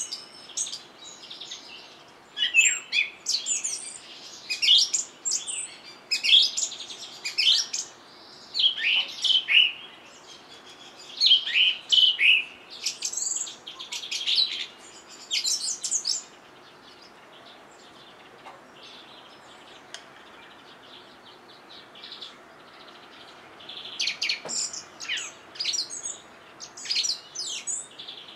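Songbirds chirping and twittering in quick, high-pitched calls, in dense bursts through the first half, then a lull, then another flurry of calls near the end.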